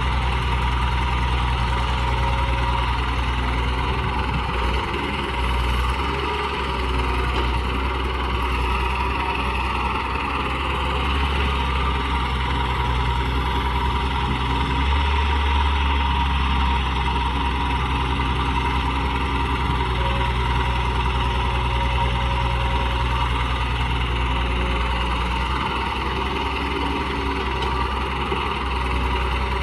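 Radio-controlled excavator working: a steady engine-like drone and hum that runs on without a break, its low end shifting in strength now and then as the machine moves.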